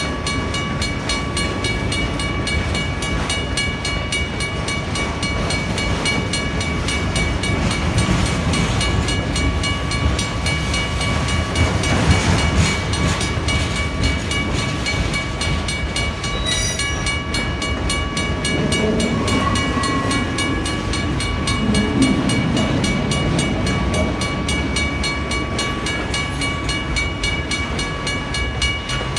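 A WRRS mechanical crossing bell ringing with rapid, even strikes over the low rumble of a CN freight train rolling through the crossing; the rumble swells about halfway through.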